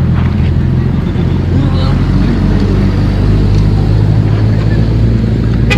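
An engine running steadily at an even, low pitch, with faint voices behind it.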